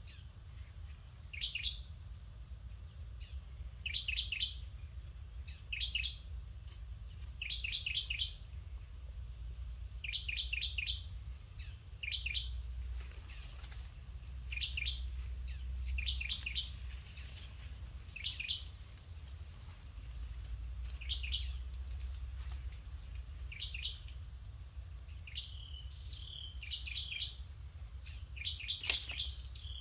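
A bird calling repeatedly: short clusters of two to four quick, high chirps about every two seconds, over a low steady rumble.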